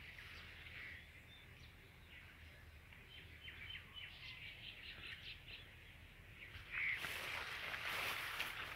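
Quiet outdoor background with a few short, high bird chirps around the middle. A louder rushing noise comes in about seven seconds in.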